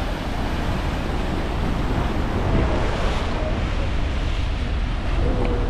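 Ocean surf washing steadily on the rocky shore, with wind buffeting the microphone in a low rumble.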